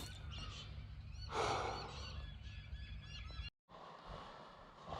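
Birds chirping and calling over a steady low hum, with one louder call about one and a half seconds in; the sound cuts off abruptly about three and a half seconds in.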